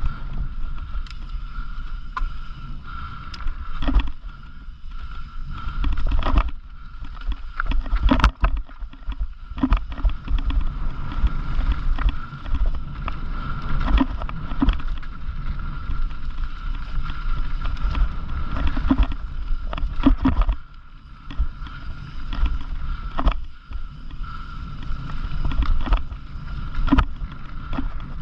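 Mountain bike riding over a rough trail, heard from a bike-mounted camera: a steady rumble of wind and tyres on the mic, with frequent sharp knocks and rattles as the bike hits bumps, and a faint steady high whine underneath.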